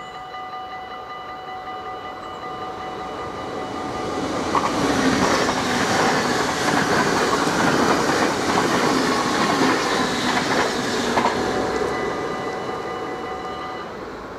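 NS double-deck Intercity electric train passing at speed over a level crossing: its rumble and wheel noise swell about four seconds in, with a few sharp wheel clicks, and fade away near the end. The crossing's warning bells ring steadily throughout and stop shortly before the end, as the train clears.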